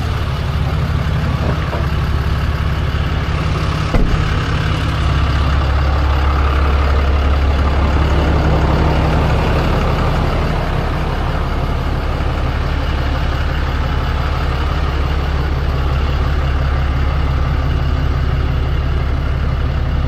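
Tow truck engine running steadily with a low hum. A single knock comes about four seconds in, after which the engine hum grows louder and stays there.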